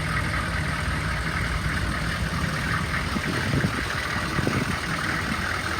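The 6.5 L V8 diesel engine of a 2002 Chevy 3500 truck idling steadily.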